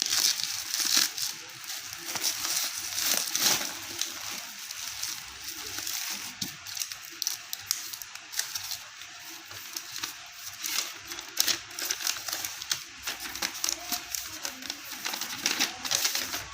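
Packaging being handled and unwrapped: plastic wrapping crinkling and rustling in irregular scratchy bursts.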